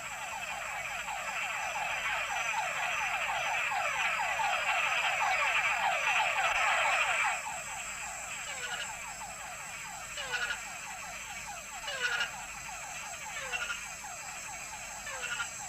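Chorus of túngara (mud puddle) frog males calling, a dense mass of overlapping falling whines. About seven seconds in it thins to a few separate whines, some followed by short sharp notes.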